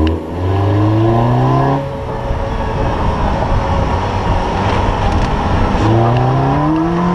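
Car engine accelerating, its pitch rising for about two seconds, then a stretch of road and wind noise, then the engine rising again near the end.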